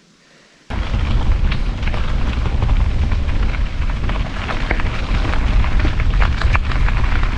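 Wind buffeting the microphone with the rumble and rattle of a mountain bike riding over a rough dirt track, with scattered small clicks; it starts abruptly about a second in.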